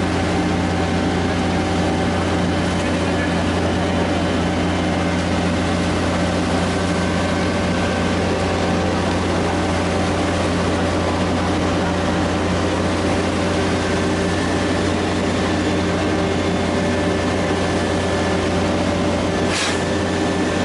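Heavy diesel construction machinery running steadily at constant load, with a short sharp sound near the end.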